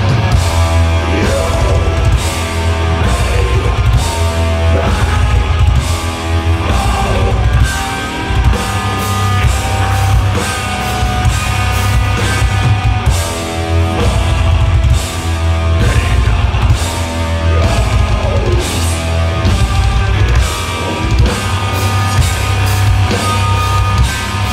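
Metal/sludge band playing live: electric guitar and bass over drums, loud and dense, with a heavy low end and steady drum hits.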